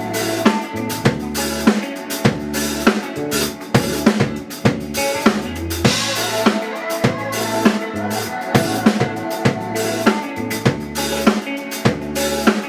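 A live band playing an instrumental intro: a drum kit keeps a steady beat of kick and snare under low bass notes and sustained chords.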